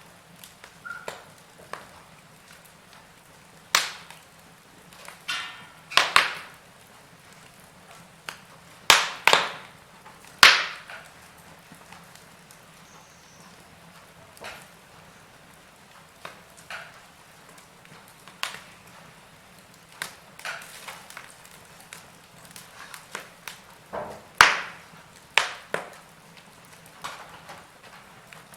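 Burning firewood in a fireplace crackling and popping: irregular sharp snaps of varying loudness, a few of them loud, over a faint steady hiss of the flames.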